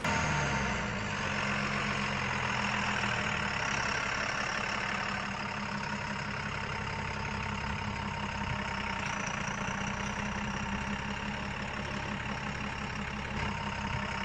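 Tractor engine idling steadily, its pitch easing down slightly in the first second before it settles into an even run.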